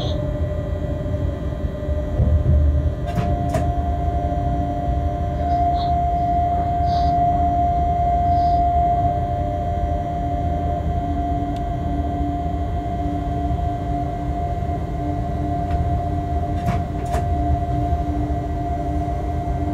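Freight train cab while running: a steady rumble of the train on the track with a steady whine that comes in about three seconds in and holds, and two pairs of sharp clicks, one about three seconds in and one near the end.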